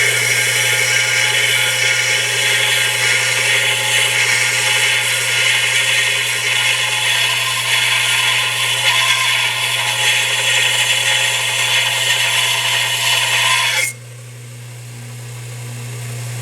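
Harbor Freight 1-by-30-inch belt grinder, refitted with a larger 1/3 HP motor, grinding a workpiece on the running belt: a loud, steady grinding hiss over the motor's hum. The grinding stops suddenly about 14 seconds in, leaving the motor and belt running alone.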